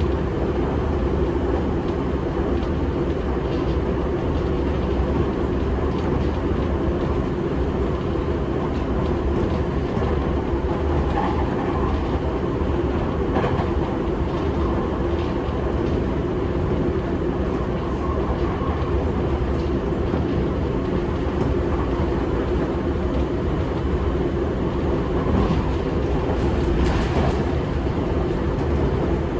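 Seibu 6000-series electric train running at speed, heard from inside the car: a steady rumble of wheels on rail, with a few clicks from rail joints near the end.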